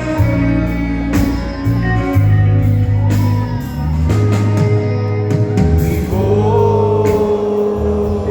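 Live rock band playing, with bass, drums and guitar, and a long held lead note that comes in about six seconds in.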